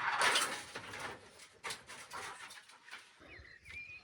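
A rustling, scraping noise for about the first second, then a few sharp knocks, and a short bird chirp near the end.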